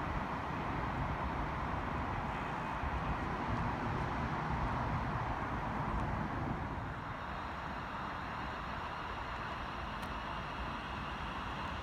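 A train running through the station, a steady rush and rumble that eases off about two-thirds of the way through.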